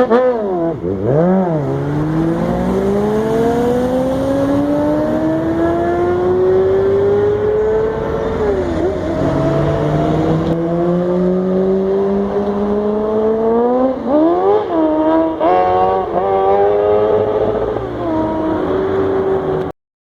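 Motorcycle engine revved, then accelerating in a long rising pull that drops in pitch at a gear change about eight seconds in and climbs again. Several quick throttle blips follow near the end, then the sound cuts off suddenly.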